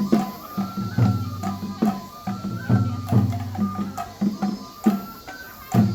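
Japanese festival hayashi music for a lion dance: a deep drum struck in an uneven rhythm, about two beats a second, under a high flute melody that steps up and down in pitch.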